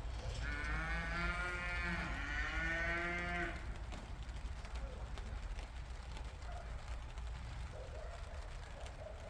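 A cow mooing once, a long call of about three seconds with a brief dip in pitch midway, over a steady low rumble.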